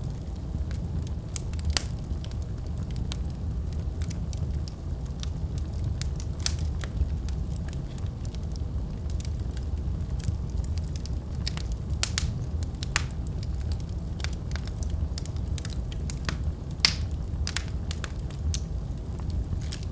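Wood fire burning in a fireplace: a steady low rumble of the flames with irregular sharp crackles and pops, a few louder pops scattered through.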